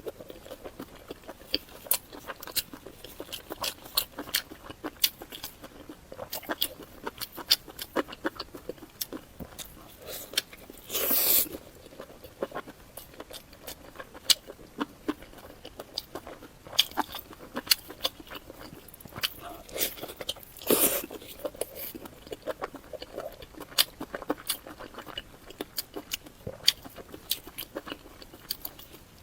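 Close-miked eating sounds: a person chewing with many short wet mouth clicks and smacks throughout, and two louder, longer sounds about 11 and 21 seconds in.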